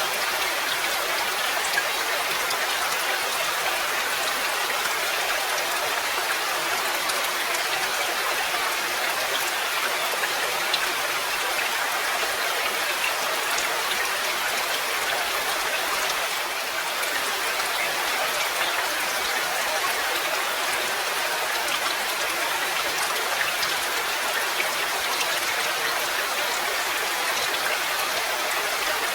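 Steady rain falling: an even hiss with scattered individual drop ticks and a slight dip in level about halfway through.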